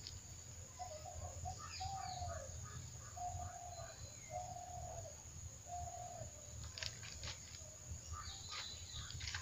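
A bird calling in the background: five short, even-pitched calls about a second apart. Near the end come a few faint gritty scrapes of hands working a soil-and-compost mix in a plastic basin.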